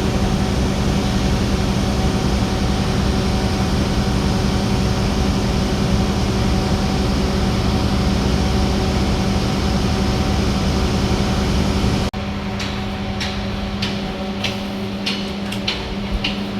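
Steady mechanical hum and drone of a passenger train car's machinery. About twelve seconds in it drops abruptly to a quieter hum, with a run of light clicks near the end.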